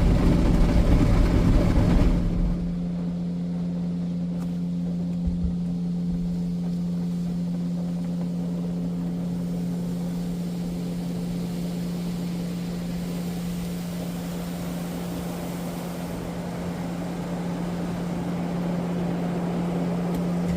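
Automatic car wash machinery running: a loud rush of spraying water or blowing air for about two seconds, which then drops away and leaves a steady motor hum under a quieter wash.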